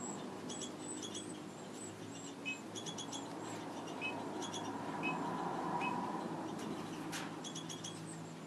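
Small birds giving short, high chirps in quick clusters of two to four at a time, over a steady low hum.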